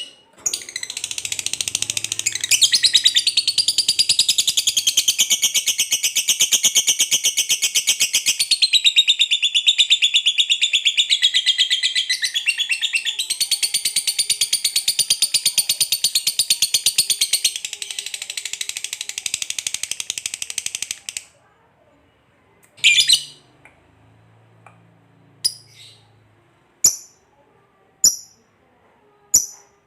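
Lovebird's 'ngekek panjang': one long, rapid, unbroken chattering trill lasting about twenty seconds. It stops suddenly and is followed by a few short single chirps, one every second or two.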